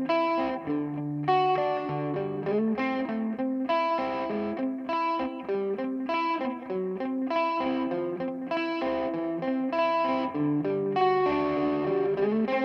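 Electric guitar played through a Donner Yellow Fall delay pedal: a continuous run of picked notes, each ringing on into the next.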